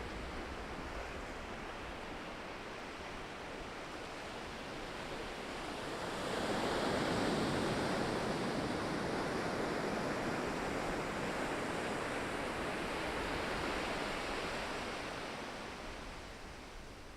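Ocean waves breaking on the shore: a steady wash of surf that swells loudly about six seconds in, holds, and then fades away near the end as the wave runs out.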